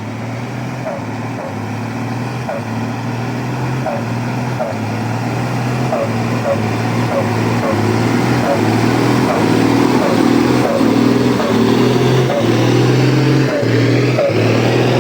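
Dodge 600 truck engine running as the truck drives off, getting steadily louder, with short squeaks repeating about twice a second.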